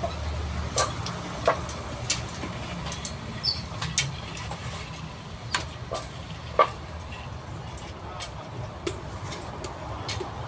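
Scattered sharp knocks and clicks, about a dozen at uneven intervals, the loudest about two-thirds of the way through, over a steady low rumble.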